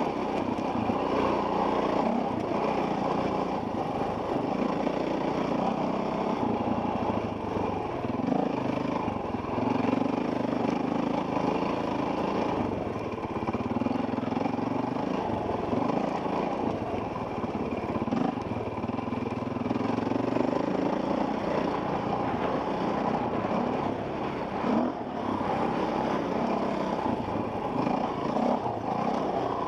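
Off-road dirt bike engine running under riding, heard from a helmet camera, its note rising and falling every second or two with throttle changes.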